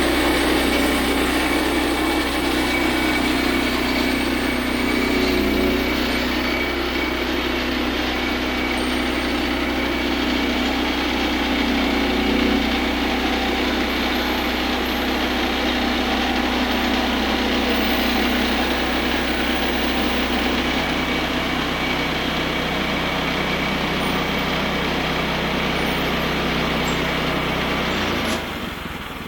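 Woodland Mills bandsaw mill running steadily at full speed, its small gas engine under a dense, even hiss. About a second before the end the sound drops off suddenly, leaving the engine running quieter.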